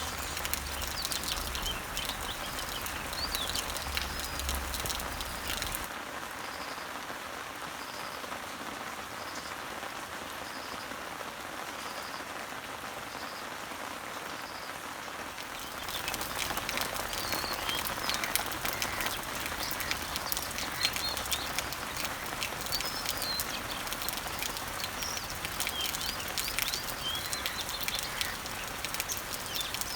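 Summer rain falling on garden leaves and trees, a steady patter of drops, with birds chirping in the background. For about ten seconds in the middle the rain sounds softer, the chirps drop away, and a faint short note repeats about once a second.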